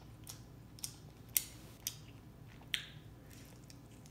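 Close-up eating sounds of a person chewing chicken wing: about five short, sharp wet mouth clicks and smacks, the loudest about a second and a half in.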